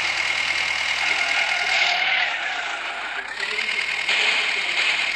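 Tractor engine running, with a high steady whine that sags in pitch about two seconds in and climbs back a second or so later.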